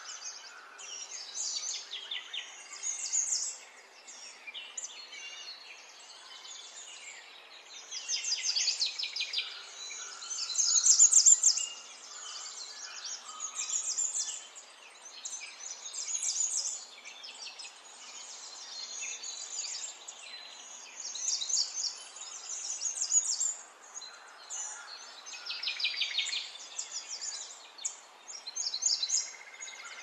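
Small birds chirping and singing in quick repeated trills over a faint steady hiss, likely a birdsong ambience track.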